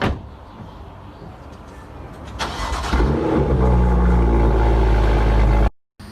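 Car engine cold start: a short burst of cranking, then the engine catches about three seconds in and runs loud and steady until it cuts off suddenly.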